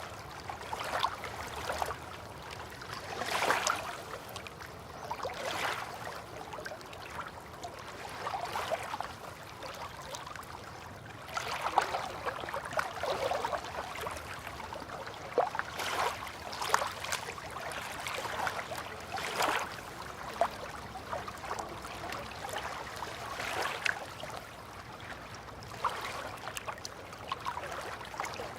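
River water lapping and splashing gently, in small irregular splashes every second or two over a steady hiss.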